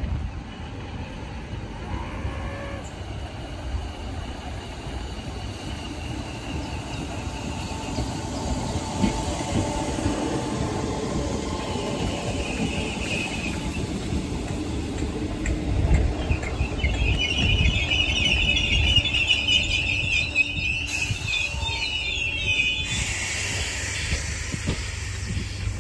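Merseyrail Class 508 electric multiple unit running into the station and braking to a stop. Its rumble grows louder as it draws alongside. A high squeal from the wheels and brakes comes in over the last few seconds as it slows.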